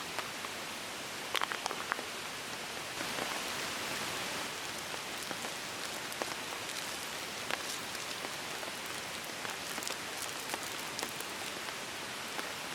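Steady rain falling, a constant hiss with scattered sharp drop ticks, a few close together about a second and a half in.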